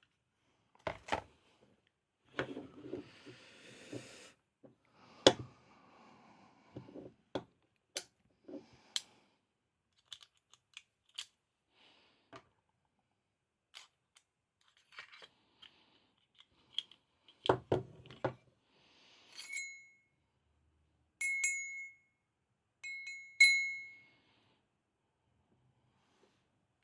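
Sharp clicks and knocks of metal parts of a KWC Taurus PT24/7 PRO DS pistol being handled and taken apart. Near the end come four short, ringing metallic clinks.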